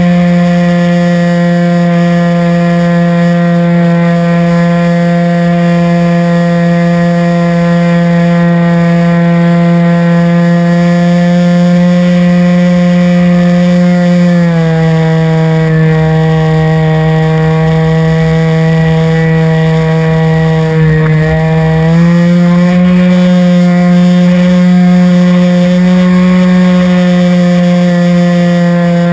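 RC model airplane's motor and propeller running steadily in flight, heard up close from an onboard camera. About halfway through the pitch drops as the throttle is eased back; some seven seconds later it rises again to full power.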